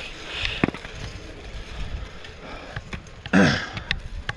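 Riding noise from a fixed-gear bicycle: wind and road haze with scattered sharp clicks and knocks. About three seconds in there is one short, louder, pitched sound that is voice-like.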